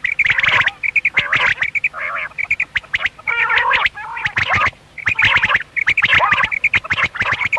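Common quails calling, two or more birds overlapping in quick runs of short, repeated notes with lower, harsher calls mixed in, almost without pause.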